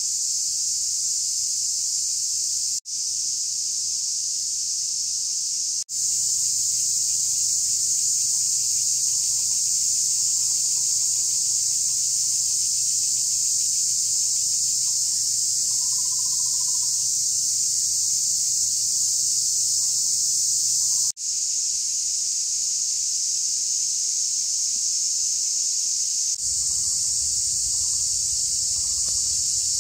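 Dense chorus of insects buzzing, a steady high-pitched shrill, broken off briefly three or four times.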